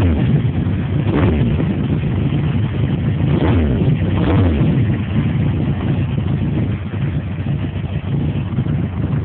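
Yamaha XJR1300 inline-four motorcycle engine through Scorpion Street Extreme slip-on exhausts, blipped about four times in the first five seconds, each rev falling quickly back, then settling to a steady idle. Wind buffets the microphone throughout.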